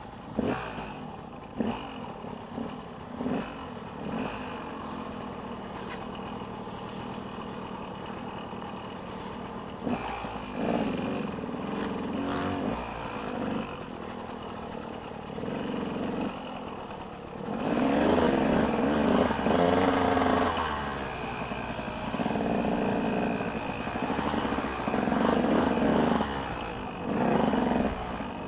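Motocross dirt bike engines revving on the track, rising and falling in repeated bursts; they are distant and fainter at first and grow much louder past the middle as bikes come close.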